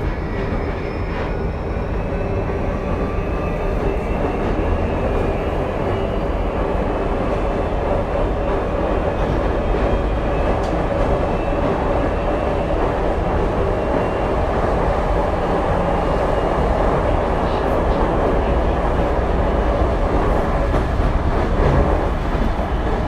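Tokyu 2020 series electric train running, heard from inside the car: a steady rumble of wheels on rail, with a faint electric motor whine that rises slowly in pitch.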